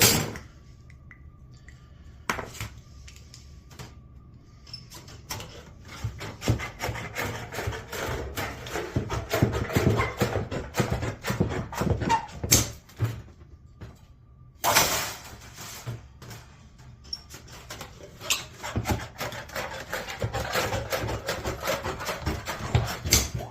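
Sheet metal being worked by hand on a bench: long stretches of rapid scraping and ticking, with a sharp metal knock at the start and another about halfway through.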